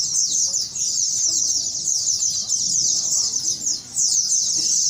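A chorus of pleci (white-eyes) singing at once: a dense, unbroken stream of fast, high chirps and trills.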